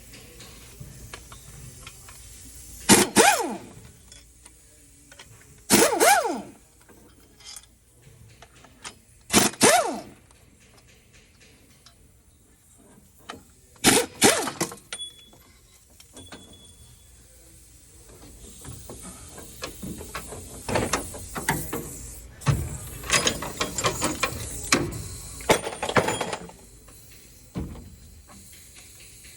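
Workshop tool work on metal: four short bursts of a power tool spinning up and winding down, a few seconds apart, then a longer run of quick ratcheting clicks and metal knocks.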